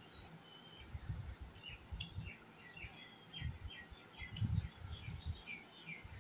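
A small bird singing a quick series of short descending chirps, starting about two seconds in, over close, irregular chewing sounds from someone eating a mouthful of rice and chicken.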